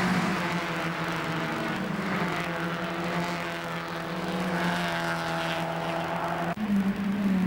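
Mazda MX-5 Cup race cars' four-cylinder engines running hard, their pitch rising and falling. The sound changes abruptly about six and a half seconds in, to another engine note.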